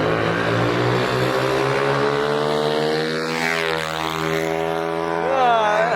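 Small mini dirt bike engine running, its pitch dipping and then climbing again about midway through as the throttle changes.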